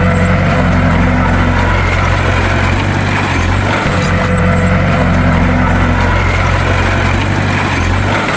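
Heavy bulldozer diesel engine running steadily under load, with a deep low drone. The same slight dip and swell comes back about every four and a half seconds.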